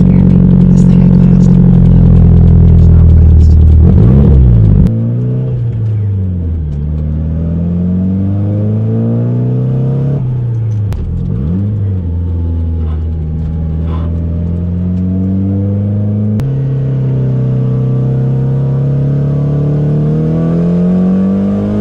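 Nissan 240SX drift car's engine revving and accelerating, its pitch climbing and dropping again and again. The sound is made of several clips spliced together, with sudden cuts about five, ten and sixteen seconds in.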